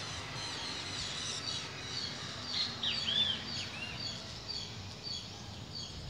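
Several small birds chirping: many short, quick calls, some arching up and down in pitch, over a steady background hiss.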